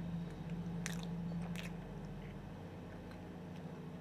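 Close-up chewing of a mouthful of chocolate bars with the mouth closed, with a couple of sharp wet mouth clicks about a second in and half a second later. A low steady hum sits underneath and fades out after about two and a half seconds.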